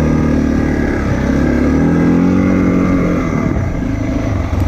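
Motorcycle engine pulling under load on a climb. Its pitch rises as it revs up about two seconds in, then drops back.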